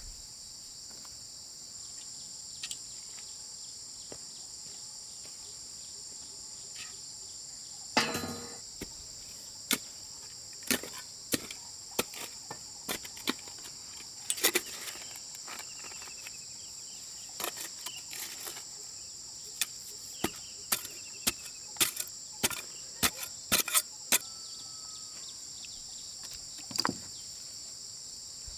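A steady high-pitched insect chorus throughout. About a third of the way in, irregular sharp knocks and taps begin, coming thick and fast a little past the middle.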